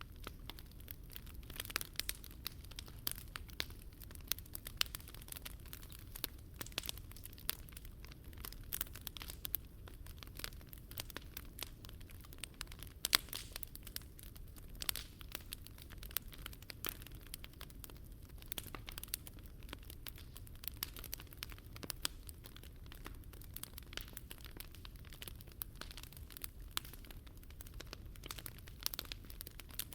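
Wood fire burning in a Picogrill 398 fire pit, crackling with many irregular sharp pops and one louder pop about 13 seconds in, over a low steady rumble.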